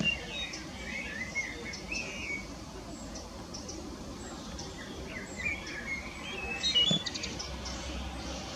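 A small songbird singing warbling, twittering phrases in two bouts, with faint high ticks between. Near the end comes a quick cluster of sharp clicks and a thump, the loudest moment.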